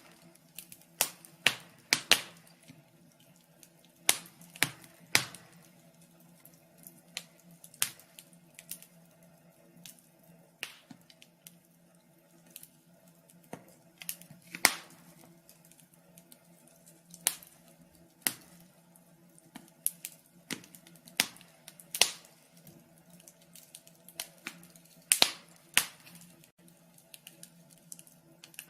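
Fire crackling: irregular sharp pops and snaps at uneven gaps, about one a second, some louder than others, over a faint steady low hum.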